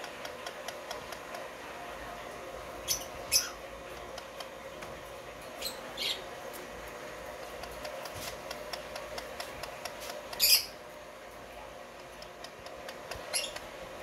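Caged birds giving short, shrill squawks, several times and partly in quick pairs, the loudest about ten and a half seconds in, over a faint rapid ticking.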